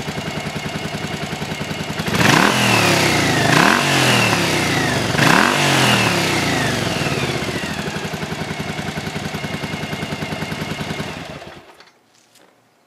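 1984 Yamaha Virago XV700's V-twin engine idling, revved three times in quick succession about two seconds in, then settling back to a steady idle. It is shut off near the end, leaving near silence. It runs smoothly on freshly cleaned carburettors with new float needles, which the owner says sounds pretty good now.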